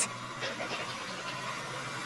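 Tractor engine idling, a steady low hum with a noisy rattle over it.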